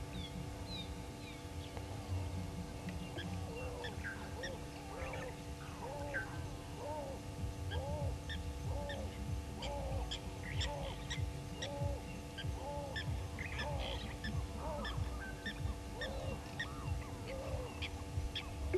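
Wild birds calling: one bird repeats an arched call about one and a half times a second through most of the stretch, over many short high chirps from other birds. A steady low hum runs underneath.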